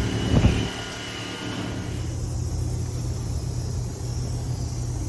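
Car engine and exhaust running with a steady low rumble, with a brief louder sound about half a second in.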